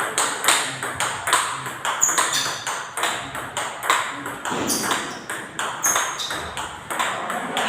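Table tennis rally of forehand topspin strokes: a celluloid/plastic ball cracks off a bat with Hurricane rubber on a Viscaria Super ALC blade and clicks on the table, a steady string of sharp hits and bounces, a couple or more each second.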